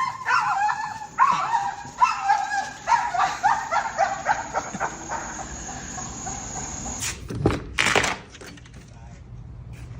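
A dog vocalising in a run of short, pitched whining yips that rise and fall, tailing off after about five seconds. Two brief noisy bursts follow about seven seconds in.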